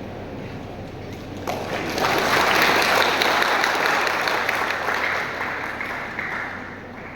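Audience applauding: the clapping swells about a second and a half in, holds loud for a few seconds, then dies away near the end.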